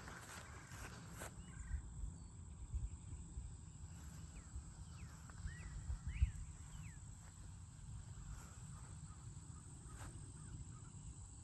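Wild birds giving a series of short chirps, about half a dozen between four and seven seconds in, over a steady low rumble and a thin, steady high-pitched hum. A few footsteps sound on the trail at the start.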